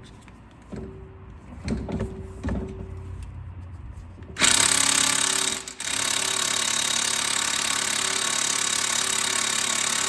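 A few light clicks, then about four seconds in an impact wrench starts hammering on the lower strut bolt, pauses briefly and hammers on steadily. The nut does not break loose; it is seized and will need heat.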